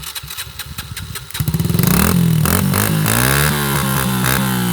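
Small dirt bike engine running just after an electric start: it idles with a quick pulsing at first. About a second and a half in it is revved up, the pitch rising and falling several times.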